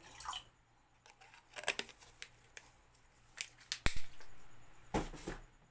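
Scattered small clicks and rustling from a vinegar container being handled and opened for pouring, with one sharp click just before four seconds in and a short noisy stretch after it.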